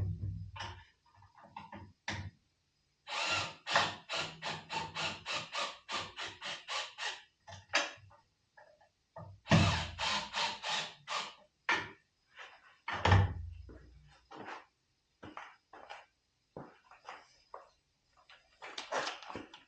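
Knocks and clunks of hand-tool work: a quick run of sharp knocks, about three or four a second, then a second run, a heavy thud about 13 seconds in, and a few scattered knocks after.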